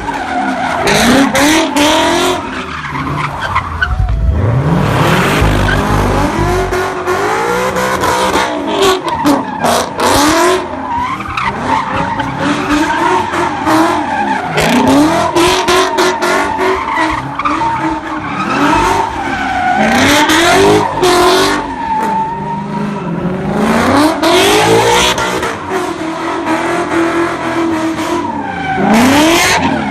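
Car engines revving up and down again and again while tyres squeal in long, continuous skids: cars spinning donuts at a street sideshow.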